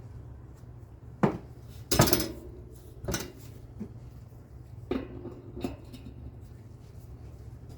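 Metal tools or bike parts clinking and clattering as they are handled and set down: about five sharp knocks, the loudest about two seconds in ringing briefly.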